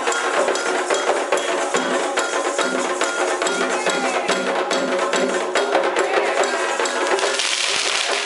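Candomblé ceremonial music: hand drums and a struck bell keeping a steady rhythm.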